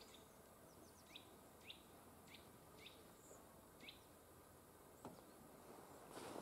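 A small bird calling in a quiet wood: short, high, down-sliding chirps, one every half second to a second, over faint background hiss. A louder rustling noise starts just before the end.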